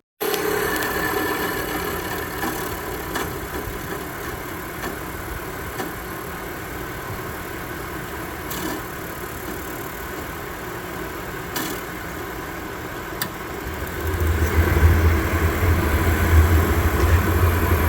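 Atwood 8535-IV-DCLP RV furnace running its freshly replaced blower motor with a steady hum. A few sharp clicks come over several seconds, then about 14 s in a louder low rumble sets in as the newly rebuilt burner lights.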